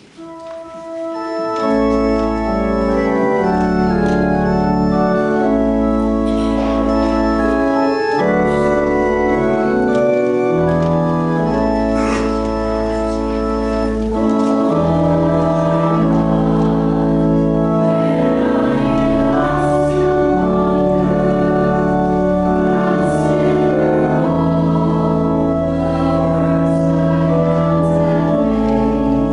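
Organ playing a hymn in slow, sustained chords over low held bass notes, starting about a second and a half in.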